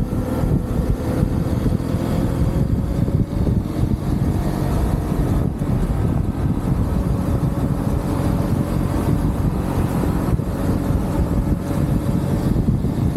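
UM Renegade Commando 125 motorcycle's single-cylinder engine running steadily while riding, heard from a camera mounted on the handlebars.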